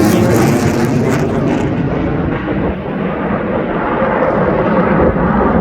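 Jet roar of Blue Angels F/A-18 Super Hornets flying past, loud and rushing, its high hiss fading away after about a second and a half as the jets move off.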